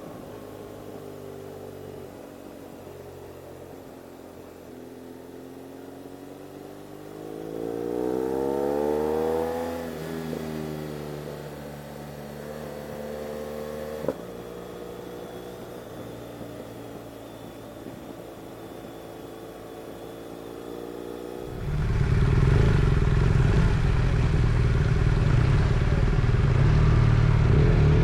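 Motorcycle engine running, its pitch rising as it speeds up about eight seconds in and then dropping back to a steady drone. About two-thirds through, a much louder low rumble sets in suddenly and becomes the loudest sound.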